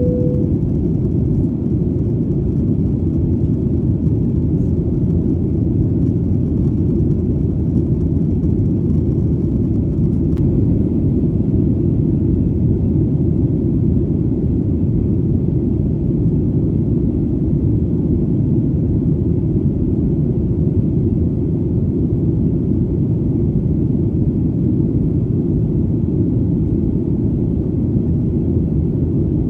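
Airplane engine drone: a steady, deep rumble that does not change. A short tone sounds right at the start.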